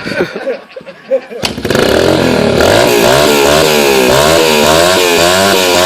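Dirt bike engine kickstarted: a sharp knock about one and a half seconds in, then the engine catches and runs, revving up and down repeatedly.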